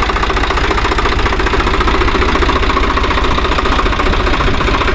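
Diesel engine running steadily with a rapid, even knocking beat.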